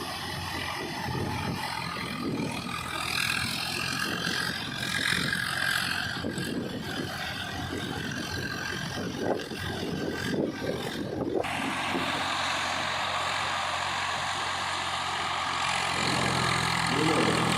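Swaraj 744 FE tractor's three-cylinder diesel engine running steadily while the tractor works puddled paddy mud on full iron cage wheels, levelling the field. The sound changes abruptly about two-thirds of the way through, with the engine's steady hum plainer near the end.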